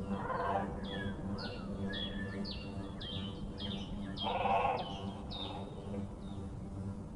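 Small birds calling: a quick series of short, high chirps that each drop in pitch, about two a second, with a lower, louder call twice. A steady low hum runs underneath.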